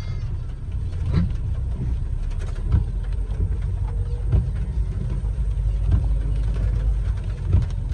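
Car's engine and road rumble heard from inside the cabin while driving, a steady low rumble with brief knocks every second or so.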